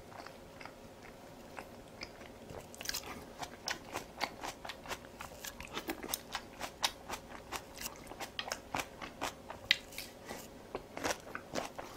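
A person chewing crunchy food close to the microphone: crisp crunches come several a second from about three seconds in, after a couple of seconds of only faint mouth clicks.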